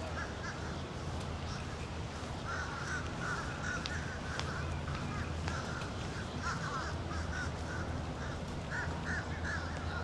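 Birds calling in runs of short, quick repeated notes, over a steady low hum.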